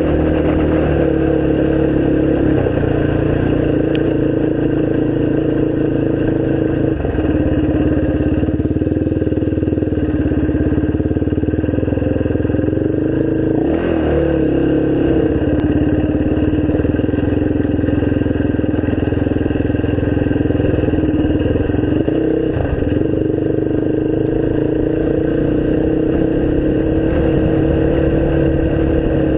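Large single-cylinder off-road engine running steadily under way, with brief changes of throttle about fourteen seconds in and again about twenty-two seconds in.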